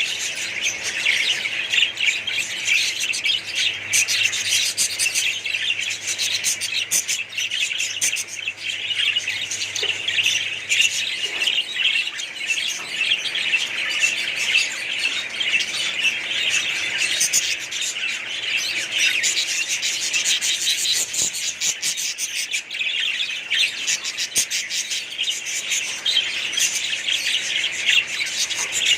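Many budgerigars and other small parrots chirping and chattering all at once: a dense, unbroken twittering with occasional squawks.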